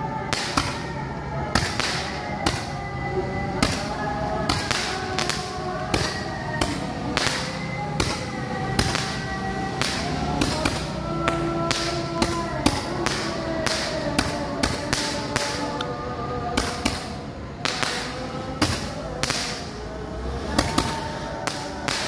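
Firework shots going off repeatedly with sharp cracks, about one to three a second, over background music.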